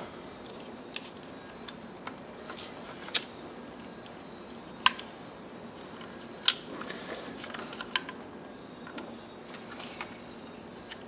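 Clicks and taps of car parts being handled and fitted by hand: four sharp clicks about a second and a half apart, with lighter ticks between, over a steady low hum.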